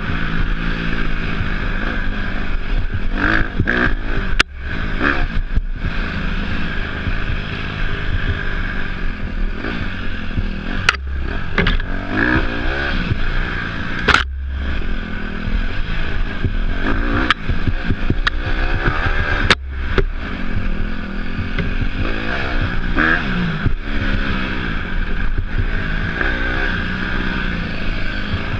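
Off-road dirt bike engine being ridden, revving up and down repeatedly as the throttle is worked, with steady wind and riding noise and a few sharp knocks.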